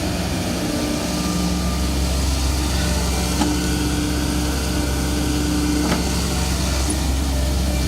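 Excavator's diesel engine running steadily, with two sharp knocks about three and a half and six seconds in.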